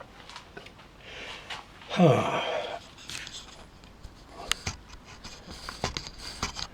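A man's breathy exhalation that ends in a short grunt falling in pitch, about two seconds in, followed by a few light clicks and knocks.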